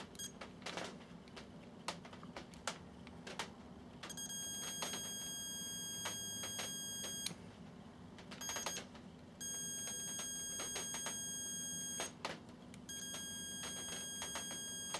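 Multimeter continuity beeper sounding a steady high beep four times, for a few seconds each with one short blip, as the probes touch the timer plug's wires: each wire reads as continuous, low-resistance and unbroken. Light clicks of the probes being handled come in between.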